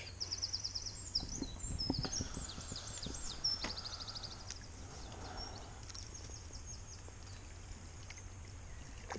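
A small songbird singing in quick, high-pitched trills over the first four seconds or so. Beneath it are a few soft knocks and a steady low rumble.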